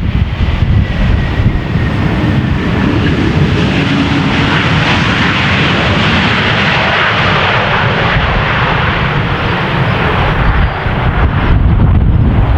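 Jet airliner passing on its landing approach. Its engine noise swells to a peak in the middle and then eases, under heavy gusty wind buffeting on the microphone.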